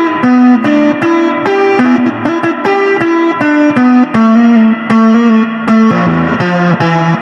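Electric guitar playing a lead run of separate picked notes, several a second, over the song's backing; a lower bass line comes in near the end.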